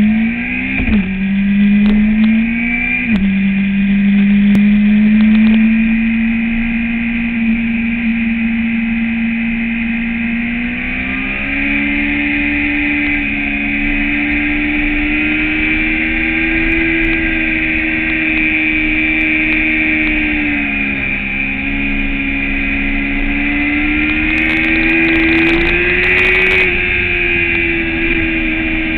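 Sport motorcycle engine running hard at track speed, heard from an onboard camera. The engine note drops sharply twice in the first few seconds as the rider shifts gears, then rises and falls steadily with speed through the corners.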